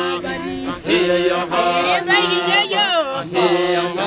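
Background music: chanting voices over a steady low drone.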